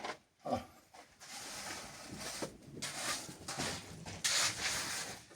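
Scraping strokes of a hand tool working through wet concrete, one after another, the louder ones about two and a half and four seconds in.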